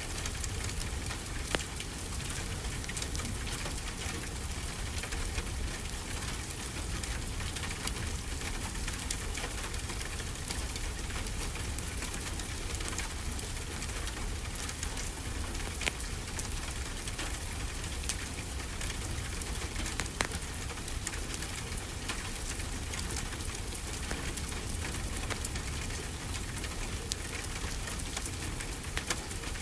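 Steady rainfall with a low rumble underneath, and the occasional sharp crackle and pop of a wood fire in a fireplace.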